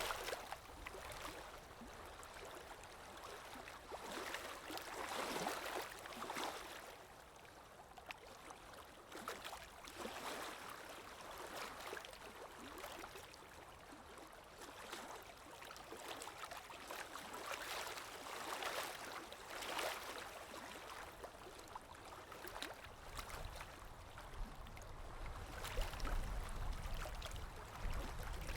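Water lapping in small waves with wind blowing, a soft wash that swells and ebbs every few seconds.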